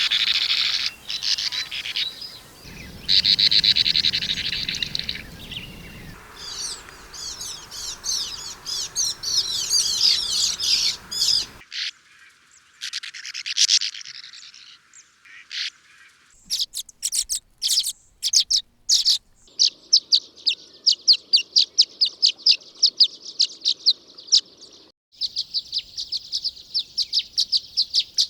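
Swallows calling and twittering: a sequence of separate recordings with abrupt changes between them, ending in long runs of quick, evenly repeated high chirps, about four a second.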